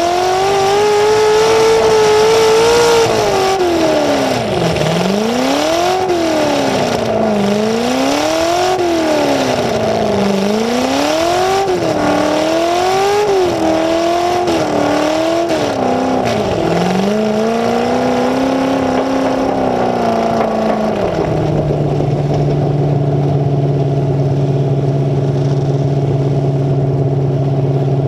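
Full-size demolition derby car's engine revving hard in repeated surges, about one every second and a half. About three-quarters of the way in it drops to a steady idle.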